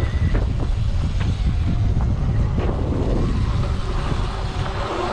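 Wind buffeting the camera microphone during an electric dirt bike trail ride, a steady low rumble, with scattered knocks and rattles from the bike over rough ground.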